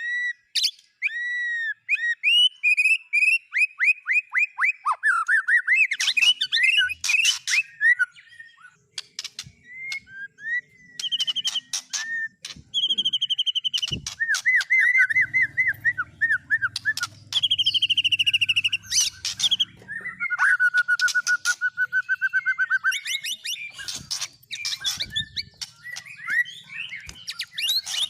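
Songbirds singing a fast, varied run of whistled notes, rapid trills and sharp chips, changing phrase every few seconds.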